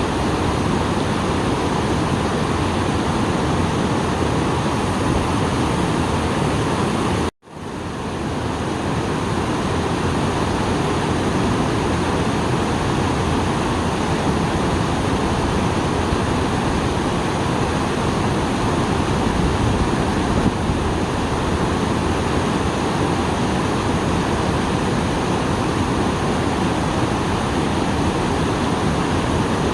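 Steady rushing of a small waterfall running full after rain. About seven seconds in the sound cuts out suddenly for an instant, then swells back up over a second or so.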